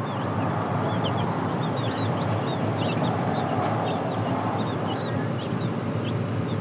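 Chickens peeping: many short, high chirps, several a second, over a steady rushing background noise.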